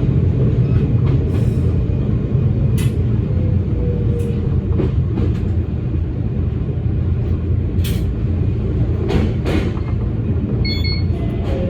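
Electric local train running along the line, heard from inside the car: a steady low rumble with a few sharp clicks along the way and a brief high tone near the end.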